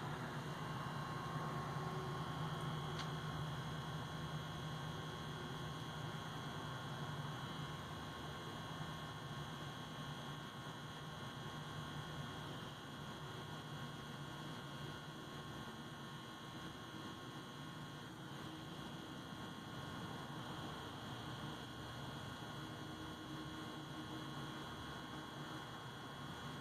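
Steady electrical hum with a faint high whine over light hiss, unchanging throughout.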